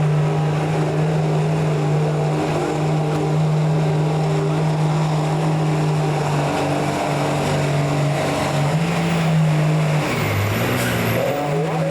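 A pulling truck's or tractor's engine held at high, steady revs under load during a pull. About ten seconds in the revs briefly drop, then climb back up.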